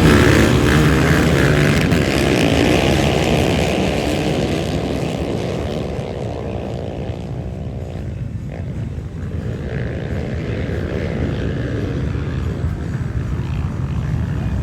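Dirt bike engines running, the sound easing off and fading to its lowest about eight seconds in, then building again near the end.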